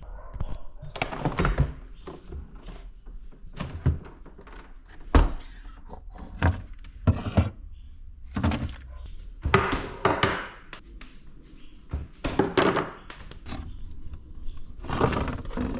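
Kitchen handling sounds while a meal is put together: an irregular string of thunks, knocks and rustles as containers, doors and dishes are moved and set down.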